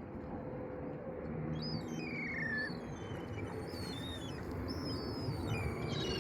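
Birds chirping, with many short falling and gliding calls, over a steady background rush.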